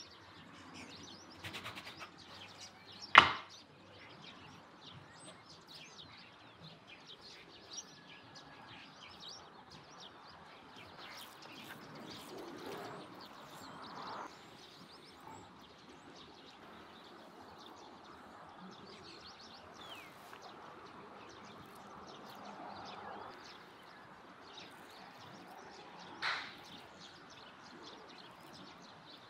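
Birds chirping in the background, with a sharp knock about three seconds in and a shorter one near the end.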